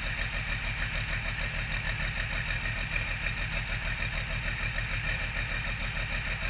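12-valve Cummins inline-six diesel, swapped into a Ford F-250, idling steadily with an even pulse after a cold start made without a block heater or grid heater.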